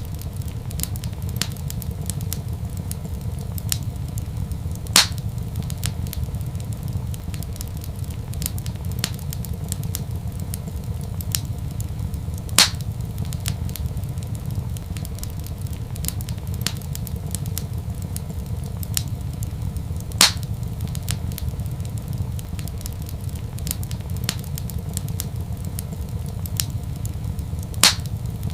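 Wood fire crackling in a fireplace: a steady run of small crackles over a low rumble, with four sharp, louder pops evenly spaced about seven and a half seconds apart.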